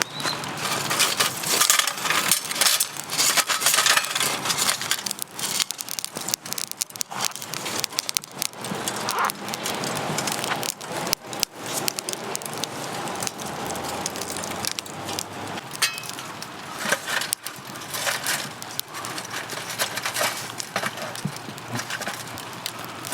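Wood fire crackling, with irregular pops and snaps.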